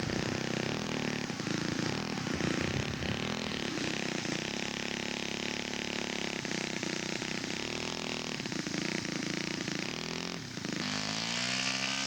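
Laser 150 four-stroke glow engine on an R/C scale model aeroplane running with a wavering pitch. It dips briefly about ten seconds in, then revs up with a steadily rising pitch near the end, as for a take-off run.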